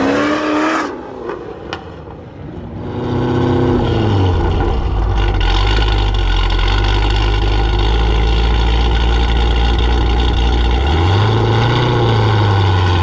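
Supercharged Camaro ZL1 V8 accelerating, its note rising, then cutting off about a second in. After a short lull, the engine note falls and settles into a steady low idle, with a slight rise in revs near the end.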